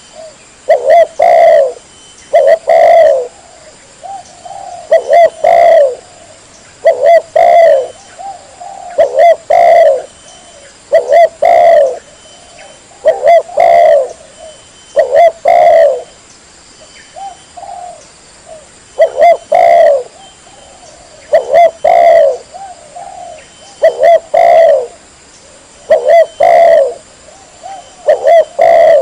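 Spotted dove (tekukur) cooing loudly, in short phrases of two or three notes repeated about every two seconds.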